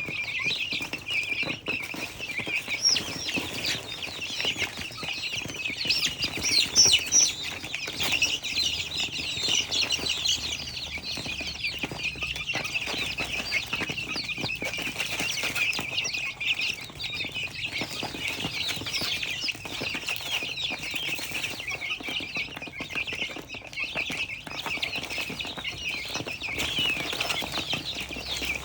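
Many birds chirping at once in a dense, unbroken chatter of short high calls, the noise a flock makes while feeding.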